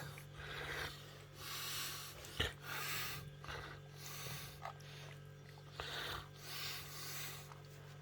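Heavy breathing close to the microphone, about five or six drawn-out breaths, with a small click midway and a steady low hum underneath.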